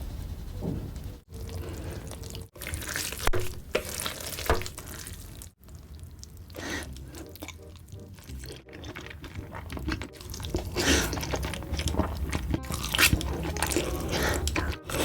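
Close-miked wet noodle sounds from a spicy-ramen mukbang: slurping, squelching and drips, with several sharp clicks. The sound cuts off abruptly about six times as short clips are spliced together.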